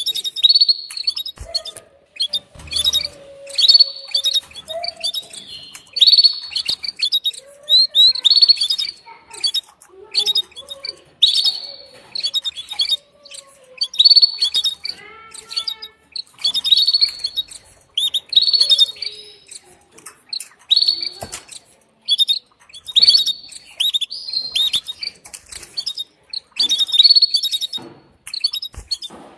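Female canary giving its mating call: short, high-pitched chirping calls repeated roughly every one to two seconds.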